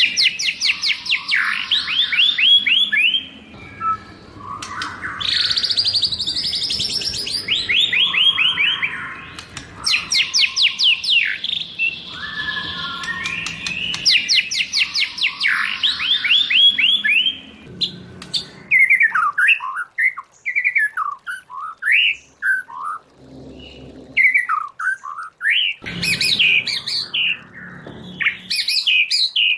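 White-rumped shama singing: repeated phrases of fast rattling trills, each a couple of seconds long, then from about two-thirds of the way through a run of short, varied whistled notes and slurs.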